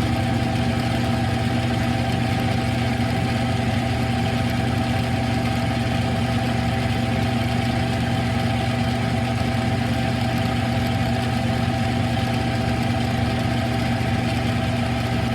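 Smithy CB-1220XL 3-in-1 lathe running at a steady speed, a constant motor-and-gear hum, while it takes a facing cut across a steel transmission nut under power cross-feed.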